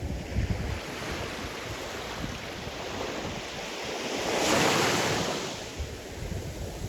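Sea surf: a wave builds, breaks with a rushing wash about four and a half seconds in, then eases back. Low gusts of wind buffet the microphone near the start and end.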